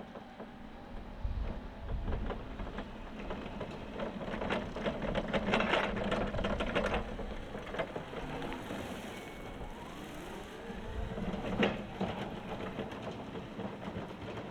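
Toyota 8FBMKT20 electric forklift running its electric motors: a whine that rises and falls in pitch, with a burst of clicking and rattling about five seconds in and a single sharp knock later on.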